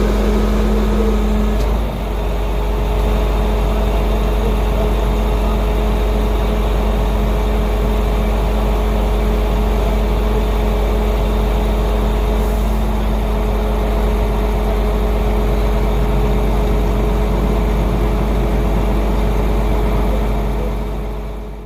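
A large road vehicle's engine running steadily, a deep rumble with a steady whine over it, fading out right at the end.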